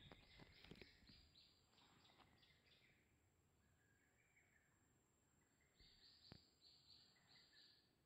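Faint bird song: a run of short high repeated notes, about three a second, lasting nearly three seconds, then a second shorter run of the same notes near the end.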